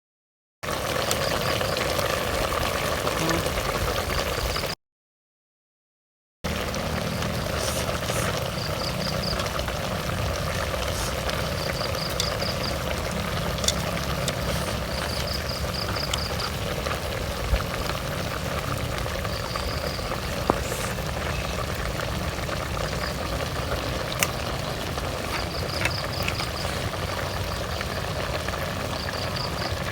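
Steady rain falling, with sharp drop taps now and then. A short high trill, likely a frog or insect, repeats every few seconds. The sound cuts out briefly near the start.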